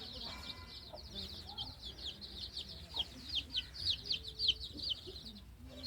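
A brood of newly hatched chicks peeping together in a dense chorus of high, falling cheeps. The cheeps are loudest about three to four and a half seconds in and stop briefly near the end.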